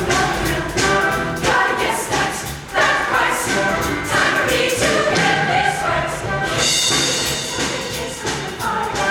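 A show choir singing in harmony over a loud backing band.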